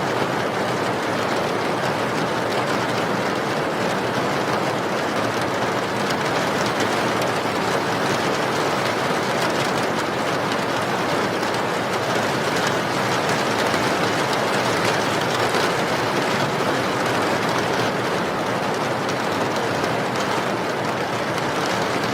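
Steady rain: an even, unbroken hiss of falling water with no changes.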